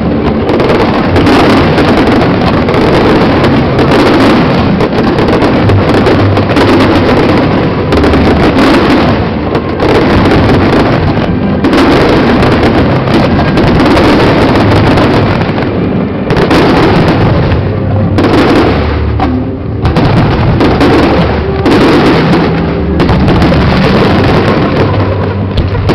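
Aerial fireworks exploding in a loud, dense barrage of overlapping bangs and crackles, with only brief lulls.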